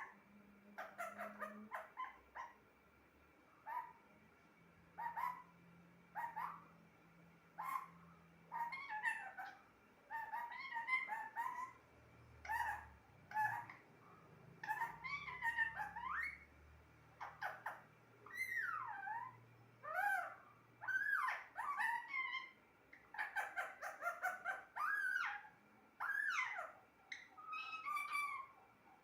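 Pet parrot calling in a long series of short, high calls, some gliding up or down in pitch, about one a second at first and coming faster and closer together in the second half.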